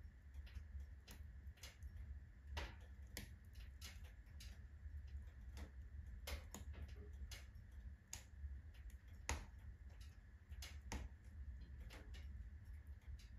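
Firewood burning in a fully loaded wood stove, crackling: irregular sharp pops and snaps, about one or two a second, over a low steady rumble. The loudest snap comes about nine seconds in.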